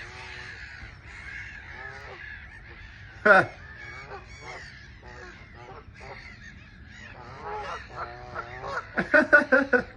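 A flock of geese honking: scattered calls throughout, one loud honk about a third of the way in, and a quick run of loud honks near the end.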